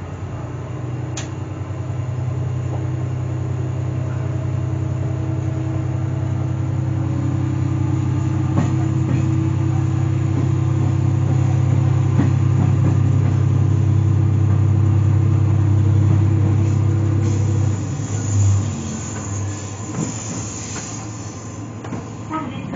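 Sanriku Railway diesel railcar running, a steady low drone that slowly grows louder and then drops away about 18 seconds in, followed by a few seconds of hiss and fainter rumbling.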